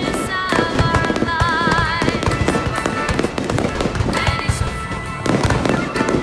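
Fireworks going off in rapid succession, a dense run of bangs and crackles, with music playing alongside.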